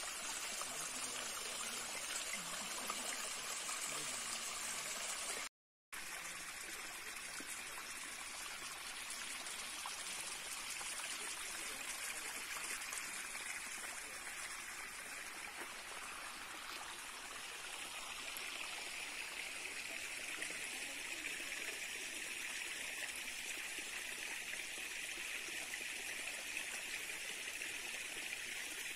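Steady rushing and trickling of running water from a forest stream, cutting out for a moment about six seconds in and taking on a higher hiss in the second half.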